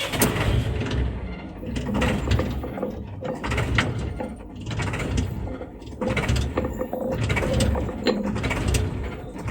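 Small battery-powered motor and gears of a homemade toy road roller running, a steady whir with frequent rattling clicks.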